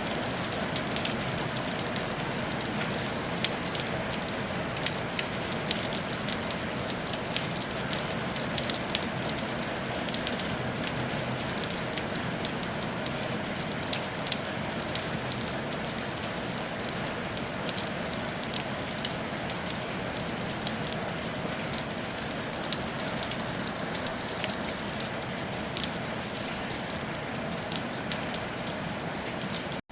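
Steady rain falling on a tile roof: a constant hiss dotted with the fine ticks of individual drops striking the tiles.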